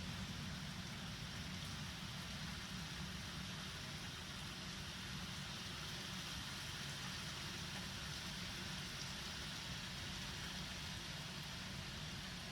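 Steady rain falling, an even hiss with a low rumble underneath and no thunderclap.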